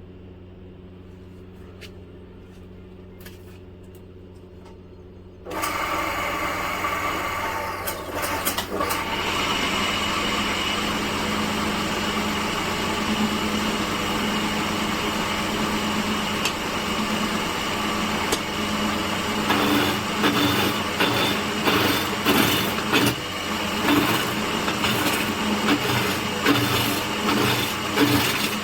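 Woodworking machine running, with a low hum at first, then jumping suddenly much louder about five seconds in and running steadily. From about twenty seconds a fast, uneven chatter of the machine working the wood comes on top.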